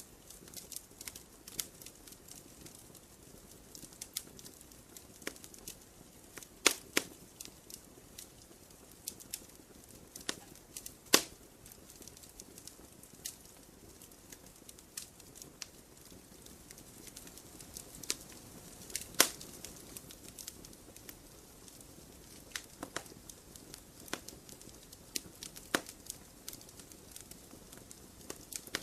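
Campfire burning: wood crackling and popping at random over a soft hiss of flame, with a few louder snaps.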